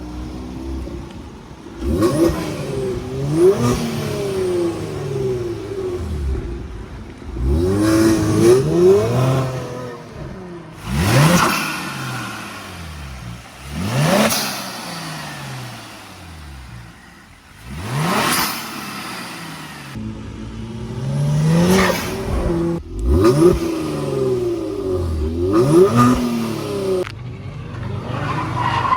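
Kia Stinger's engine, fitted with an upgraded larger-diameter downpipe, revved repeatedly: about seven sharp revs, each rising quickly in pitch and then falling back.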